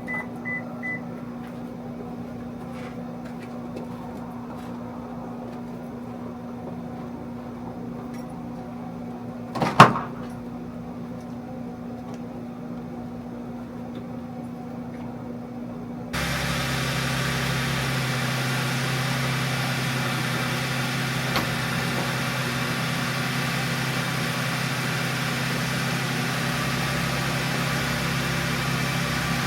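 A steady machine hum, with three short high beeps at the start and a single sharp knock about ten seconds in; at about sixteen seconds it gives way abruptly to a louder, deeper steady running hum with more hiss, like an engine idling.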